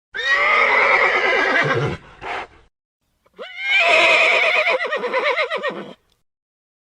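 Horse neighing twice: a call of about two seconds with a short burst after it, then a longer, quavering whinny of nearly three seconds.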